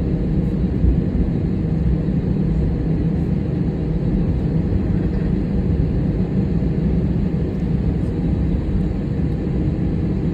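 Airliner's jet engines giving a steady low rumble with a faint steady drone, even throughout.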